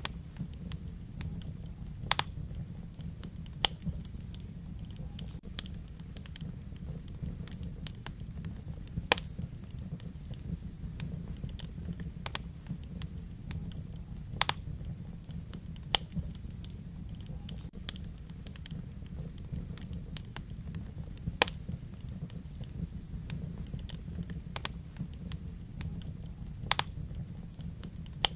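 Wood fire burning in a fireplace: a steady low rumble of flames with frequent small crackles and about a dozen louder, sharp pops at irregular intervals.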